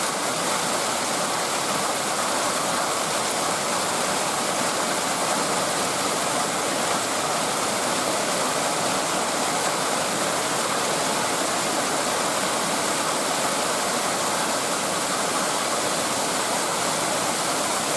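Torrential rain pouring down in a steady, loud rush, so noisy that talking over it is hard.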